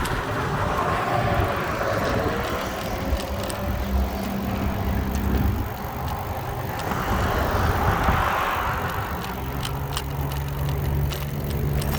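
Bicycle ride along a road: steady road and wind noise with small rattles and ticks, and passing car traffic with a low engine hum that swells and fades around eight seconds in.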